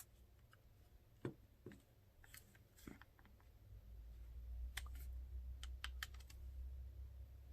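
Faint scattered clicks and taps of a flip phone being handled and its charger plugged in, with a low rumble coming in about halfway through.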